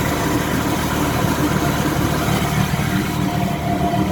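Fast rescue boat's engine running steadily just after a restart at idle.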